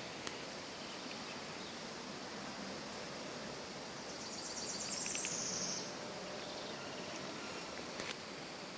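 Outdoor nature ambience: a steady hiss, with a short, high, rapid trill about four to six seconds in and two faint clicks.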